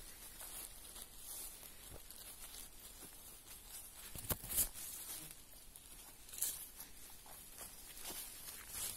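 Footsteps on a dry forest floor, leaf litter rustling and crackling underfoot, with a couple of sharp twig-like cracks about halfway through.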